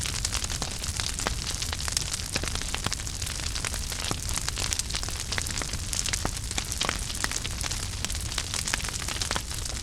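Wood fire in a fireplace burning steadily, with a continuous hiss and low rumble and many quick, irregular crackles and pops from the burning logs.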